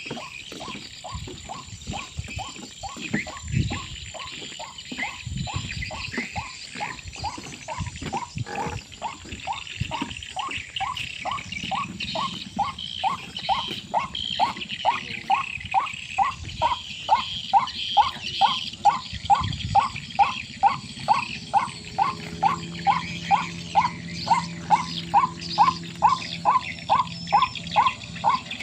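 White-breasted waterhen (ruak-ruak) calling, a long run of short rising croaking notes, about two and a half a second, that grow louder past the middle.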